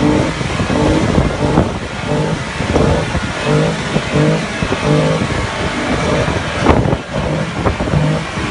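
Jeep Wrangler engine running hard, revving, under a continuous loud rush of noise. Over it runs a rhythmic pattern of short steady tones about twice a second, and a sharp knock sounds about seven seconds in.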